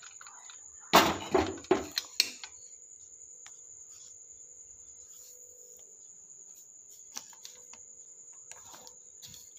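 Four or five sharp knocks and clatters of kitchen utensils about a second in, then a few faint handling clicks, over a steady high-pitched cricket trill.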